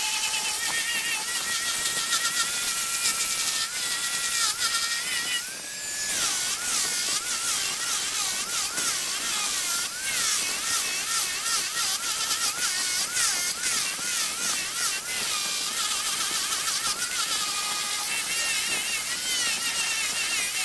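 A small high-speed power tool running on wood, its whine dipping and rising as it bites and eases off. About five seconds in it briefly lets up, then climbs back to speed.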